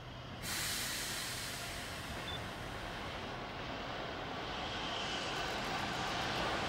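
A Keihan electric commuter train approaching along the line, its rushing rail noise growing steadily louder. A broad hiss starts abruptly about half a second in.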